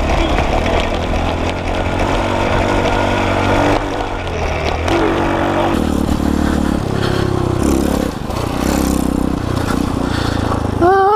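Pit bike's small single-cylinder engine running under way, its pitch rising and dropping several times as the rider opens the throttle and shifts gears.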